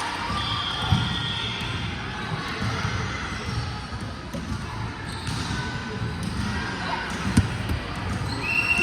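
Echoing sports-hall background of indistinct voices, with a few sharp ball thuds, one about a second in and another near the end.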